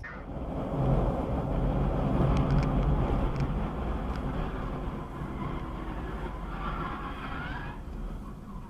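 A car on the move: steady engine and road noise that starts abruptly and is loudest in the first few seconds.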